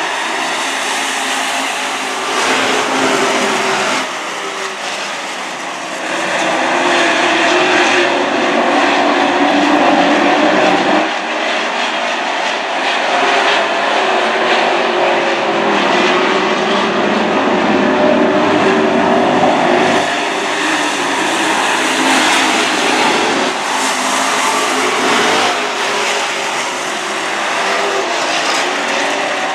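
Super Truck race trucks running laps on a dirt oval, their engines loud and continuous, swelling and fading every few seconds as trucks pass.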